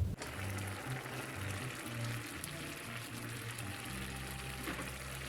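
Pot of water with rice in it bubbling on the boil, a steady fine bubbling hiss, with faint low background music underneath.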